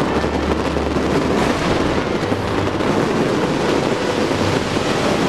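Many fireworks going off at once: a dense, steady rumble with no single burst standing out.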